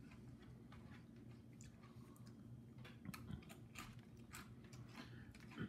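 Faint crunching of a tortilla chip being bitten and chewed, scattered crackles that grow more frequent in the second half, over a low steady hum.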